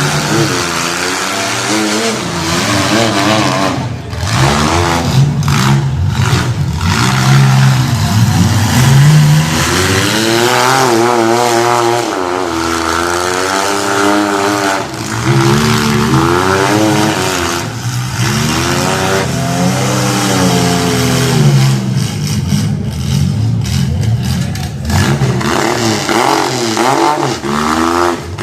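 Demolition derby cars' engines revving hard, their pitch climbing and falling again and again, with several loud knocks from cars ramming each other.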